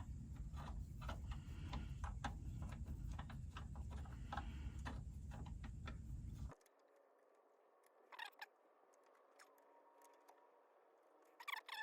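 Irregular light clicks and clinks of hand tools and metal parts being worked on a truck's clutch linkage rod, over a low rumble that cuts off abruptly about six and a half seconds in; a few isolated clicks follow near the end.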